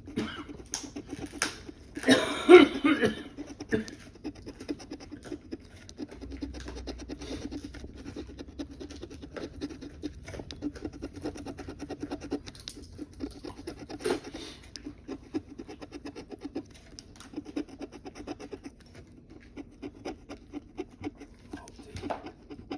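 Scratch-off lottery ticket being scratched: a dense, quick run of short scraping strokes, with a louder burst of noise about two seconds in.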